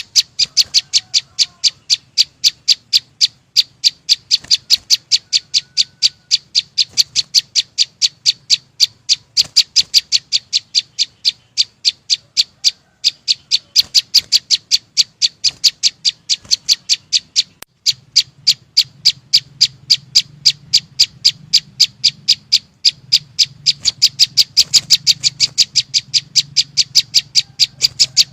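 A small songbird, the 'chim sâu xanh', calling: a loud, rapid, unbroken run of sharp high chip notes at about three a second, pausing briefly twice. A faint low hum runs underneath.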